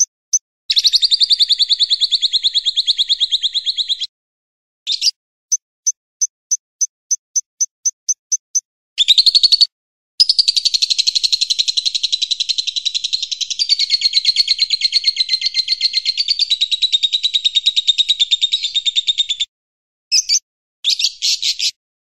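Songbird masteran recording for training cage birds: a run of evenly spaced sharp high chirps, then two long, very rapid chattering trills, the second lasting about nine seconds, with scattered short chirp bursts near the end. The recording mixes cililin, lovebird and siri-siri song.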